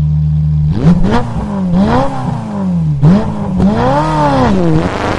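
Car engine idling steadily for a moment, then revved over and over, its pitch rising and falling several times. The longest, smoothest rise and fall comes in the second half.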